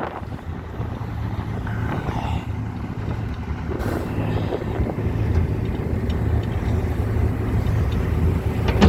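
An engine running steadily, its low hum slowly growing louder.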